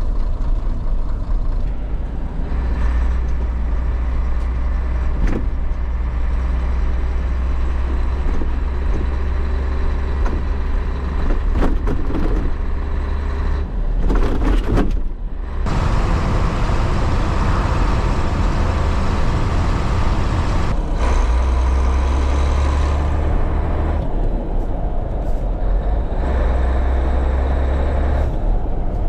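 1989 Scania 93M 280 lorry's straight-six diesel engine running as the truck is driven, its steady low drone rising and dropping several times with changes in load and gear. About halfway through the sound briefly drops away, with a few sharp clicks, before the engine pulls on again.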